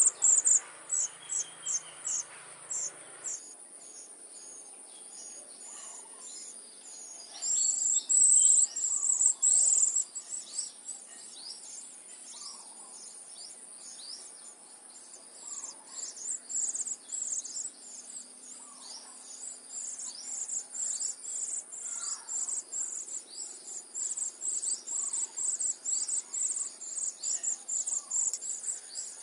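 Cuckoo chick begging: a long series of short, very high-pitched chirps, loudest in a burst about a third of the way in and quickening again in the second half, over a steady high insect drone.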